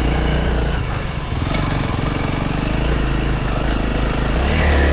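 Honda CRF300L single-cylinder four-stroke dirt bike engine running hard under load on a rough trail climb, the revs rising briefly near the end.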